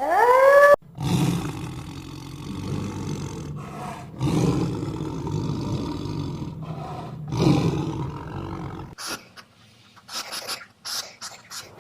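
An animal's howl rising in pitch and cutting off under a second in, then three low, rough growling roars about three seconds apart, then a run of short clicks and snuffles near the end.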